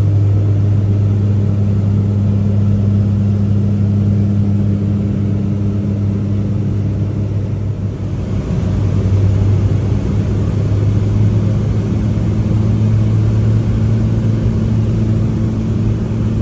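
Ferry boat's engine running steadily, a loud low hum; it dips briefly a little past halfway, then runs on slightly higher in pitch.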